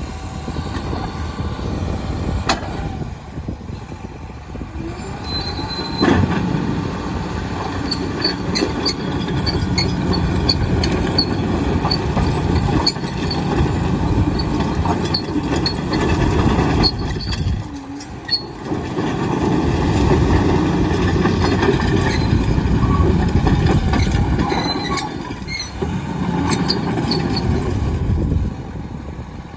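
John Deere 850K LT crawler bulldozer working: diesel engine under load with steel tracks clanking and squealing, its loudness rising and falling as it moves. It dips briefly about two-thirds of the way through and eases off near the end.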